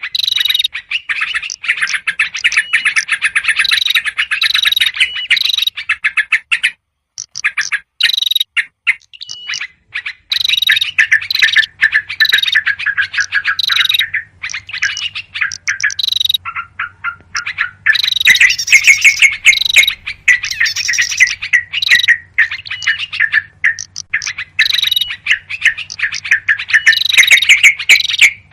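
Yellow-vented bulbuls giving a fast, noisy chattering of many short notes in runs broken by brief pauses: an excited flock chorus used as a lure call for small birds.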